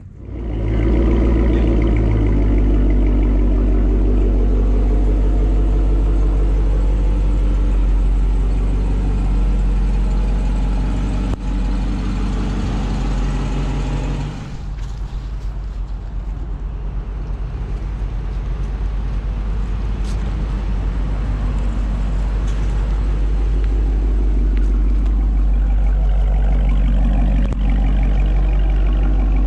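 2023 Dodge Charger R/T's 5.7-litre HEMI V8 starting up with a brief swell in revs, then running at a steady, loud idle. About halfway through the sound drops somewhat, and it rises a little again near the end.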